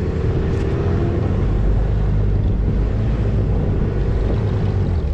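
Snowmobile engine running steadily while riding through snow, with wind buffeting the microphone.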